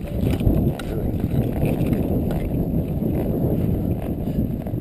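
Strong wind buffeting the microphone in a steady low rumble, with faint hoof steps of a horse walking on a wet trail.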